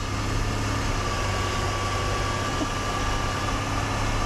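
Engine of a truck on snow tracks running steadily, with a thin steady whine over the low rumble.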